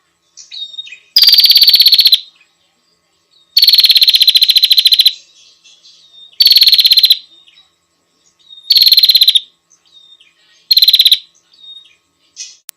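Prinia song: five loud, fast rattling trills of about a second each, with soft short chirps between them.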